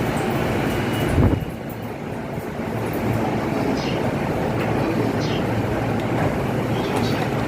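Chuo Line commuter train sounding at a station platform, with wind rumbling on the microphone. A short, loud wind buffet hits about a second in.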